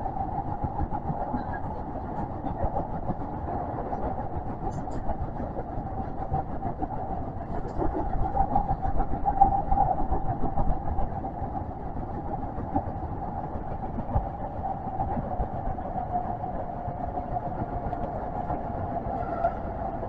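Kintetsu train running on the Karasuma subway line, heard from aboard: a steady running rumble with a constant motor whine that swells a little around the middle and dips slightly in pitch near the end.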